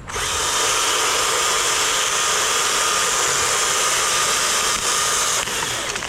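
Loud, steady machine noise, a hiss-like whir with a faint steady tone in it, that starts abruptly and drops off near the end.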